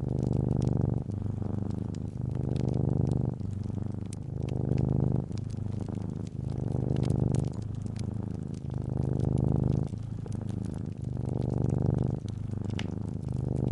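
Calico cat purring, a low rumble that swells and eases with each breath in and out, about every two seconds. Fireplace crackle adds scattered small pops.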